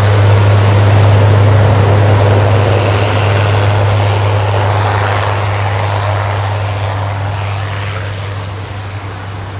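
Lockheed C-130 Hercules four-engine turboprop at takeoff power: a loud propeller drone with a steady low hum, loudest about a second in and then slowly fading as the aircraft moves away.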